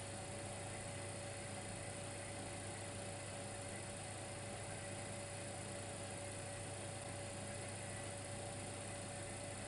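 Dimplex electric fireplace running with a steady, faint electrical hum and a constant thin whine over a low hiss.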